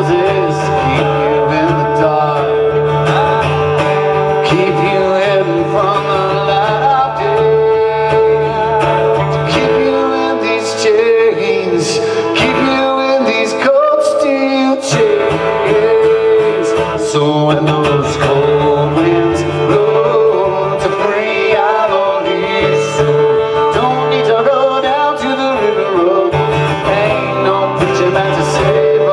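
Live folk song: male voice singing over strummed and plucked acoustic strings, a guitar among them.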